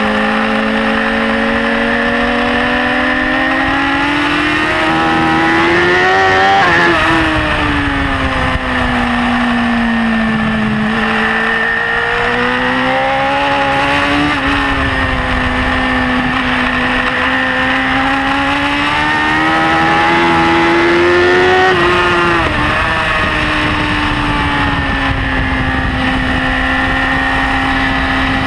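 BMW S1000RR inline-four engine at racing speed, its pitch climbing and falling with throttle and gear changes, rising to a peak twice, about six seconds in and again past twenty seconds, then dropping suddenly, with wind rushing past.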